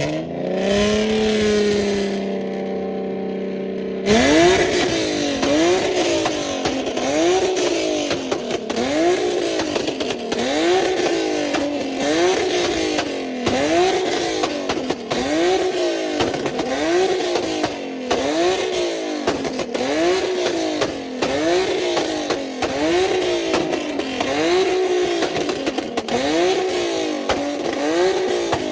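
A car engine revved hard during a burnout. It climbs in pitch and holds, then about four seconds in a steady hiss comes in and the revs swing up and down, a little slower than once a second, over and over.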